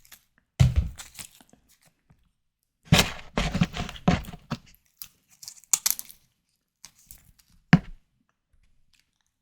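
Close-miked eating and handling of white tiger prawns: scattered crunches, tearing and crackling sounds in short separate bursts, the longest a few seconds in, with a sharp click near the end.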